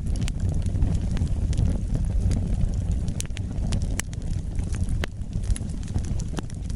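Wood fire burning: a steady low rumble of the flames with scattered sharp crackles and pops from the burning wood, a few of them louder, about three, four, five and six seconds in.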